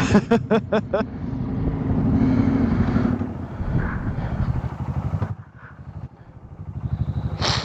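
Motorcycle engine running at low revs with a steady, even pulse, opening with a quick run of about half a dozen sharp knocks in the first second and ending with a short hiss.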